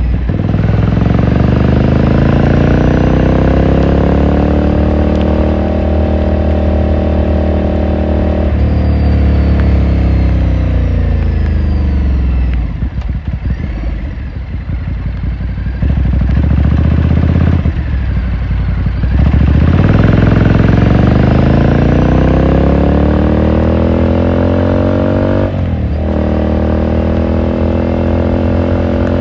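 2018 Ducati Scrambler Sixty2's air-cooled L-twin exhaust under way: the revs climb with an upshift about a third of the way in. The throttle then closes and the engine winds down with an uneven crackle on the overrun, before it pulls hard again near the end with another upshift.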